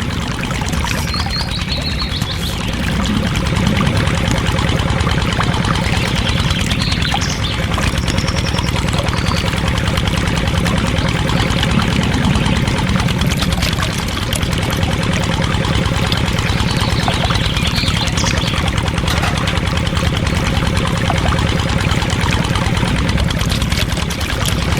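A small motor or engine running steadily with a low hum while water pours.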